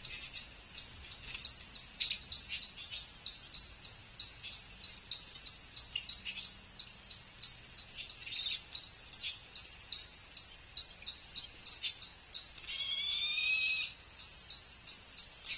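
Birds at a feeder: a steady run of short, sharp chip notes, about three a second, with one louder, harsh call lasting about a second near the end.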